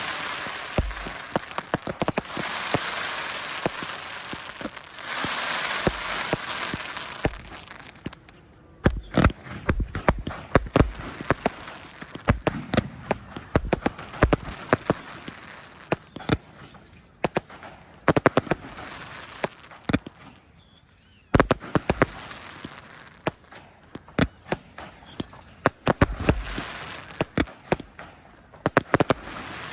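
Fireworks going off. There is a dense hissing crackle for about the first eight seconds, then a long run of sharp bangs and crackles, some of them in quick clusters.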